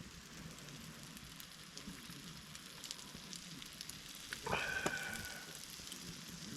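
Campfire crackling, with small sharp pops over a soft hiss. About four and a half seconds in, a short high tone sounds for about a second.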